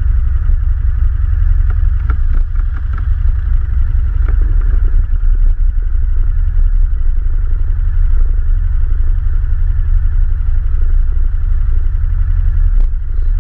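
ATV engine running steadily with a deep low rumble, with a few short knocks and rattles.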